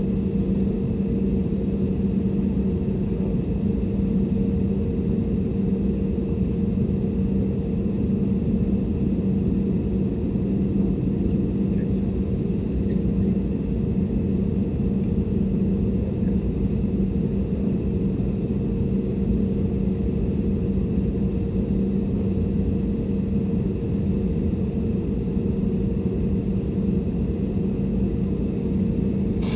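Airbus A320neo engines heard inside the passenger cabin: a steady drone with a constant low hum and a higher steady tone above it, unchanging throughout.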